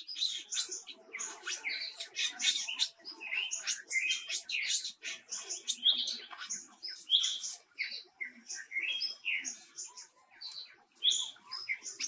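Many birds chirping and whistling together: a dense stream of short, high notes, some sliding up and down, with no pause.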